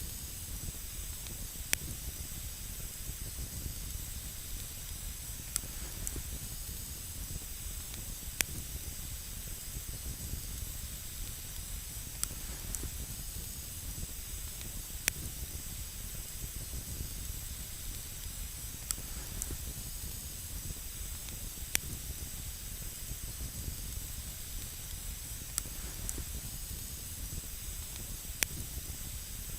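Campfire burning on snow: a steady hiss with sharp pops and crackles from the wood every second or two.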